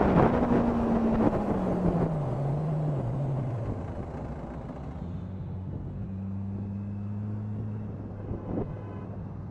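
Motorcycle engine slowing down, its note falling over the first few seconds while the wind rush dies away, then running steadily at a low, even pitch.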